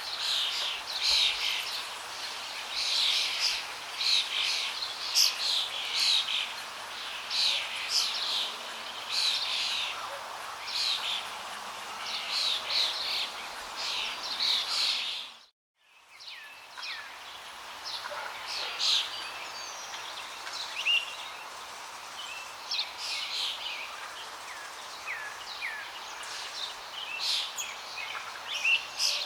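Many birds chirping and singing over a steady rush of flowing water. About halfway through, the sound dips briefly to silence and comes back, with fewer birds calling afterwards.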